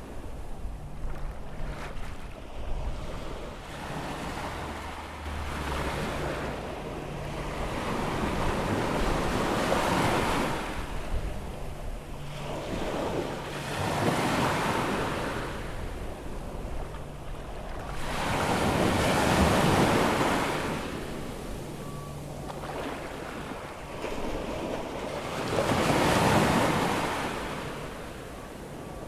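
Atlantic surf breaking and washing up the beach on an incoming tide, rising and falling in surges every few seconds, the strongest about two-thirds of the way through and again near the end. Wind is buffeting the microphone.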